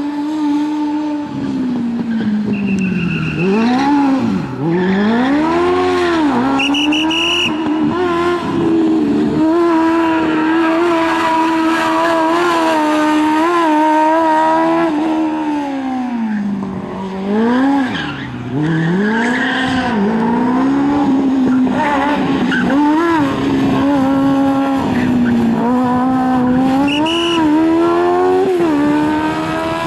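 Kawasaki Ninja motorcycle engine in a Smart Fortwo revving hard through a rally stage, its high-pitched note rising and falling again and again with gear changes and lifts for corners. The tyres squeal briefly a few times.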